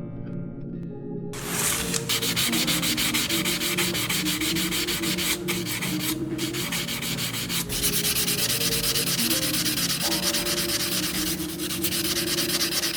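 Sanding on a 1:24 scale model car, a dense, steady scraping that starts about a second in over a steady hum, with a few brief breaks as the sanding lifts off.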